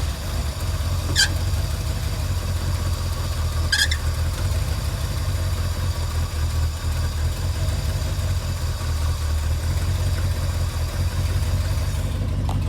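A 1973–79 Ford pickup's engine idling steadily, with two brief high squeaks about a second and about four seconds in.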